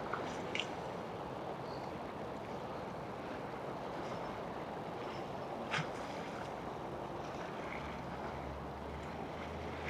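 Harbour ambience of a motorboat's engine running steadily under water and wind noise, with its low hum growing stronger near the end. There are two brief faint clicks, about half a second in and near six seconds.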